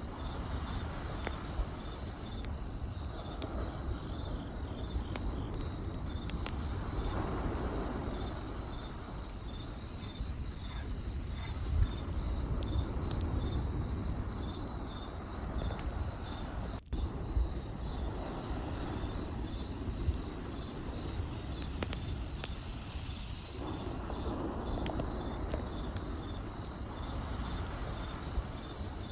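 Campfire crackling with scattered sharp pops over a steady chorus of crickets chirping in a high, even pulse, with a low rumble underneath.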